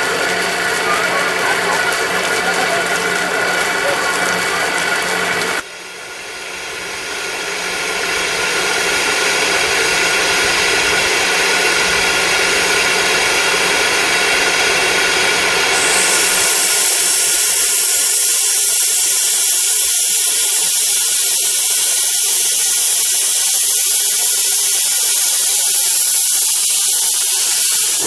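Standing narrow-gauge steam locomotive giving a steady mechanical whine with several held tones. The sound drops suddenly about five seconds in and builds back up. From about halfway a loud steam hiss dominates.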